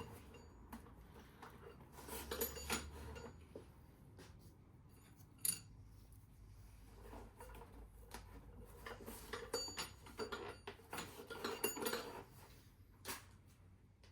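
Light metallic clinks and knocks at irregular intervals as steel pushrods are drawn out of a classic Mini engine and set down together, with two sharper single clinks partway through and near the end.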